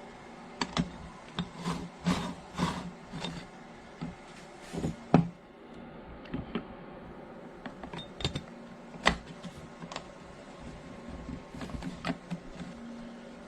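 Irregular clicks, knocks and light clatter of hard parts being handled, with a sharp clack about five seconds in and another about nine seconds in.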